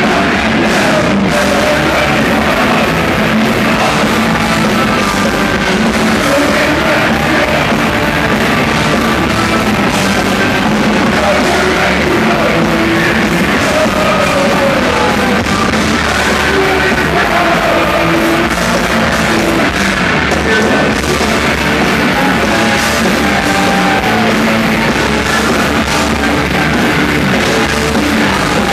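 A rock band playing loud live music, with singing over it.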